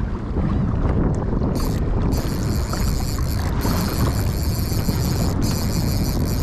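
Wind buffeting the microphone over water washing against a kayak's hull as a boat wake rolls through, with a steady high hiss coming in about one and a half seconds in.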